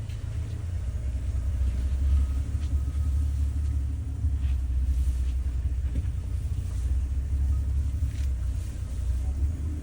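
Vehicle engine idling with a low, steady rumble.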